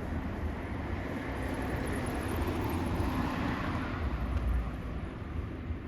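A road vehicle driving past, its engine and tyre noise swelling through the middle and easing off near the end.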